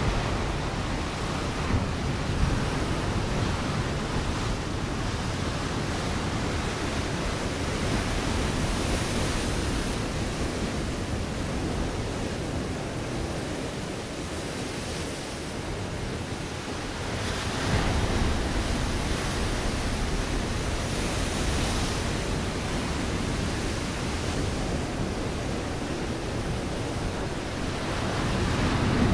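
Ocean waves breaking on a rocky shore: a steady wash of surf that swells as a wave comes in about 17 seconds in and again near the end.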